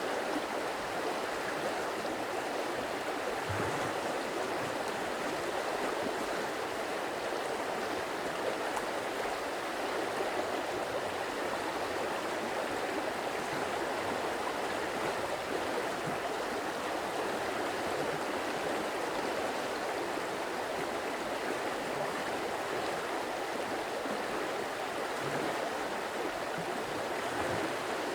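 Stream water flowing steadily over rocks, an even, unbroken sound of running water.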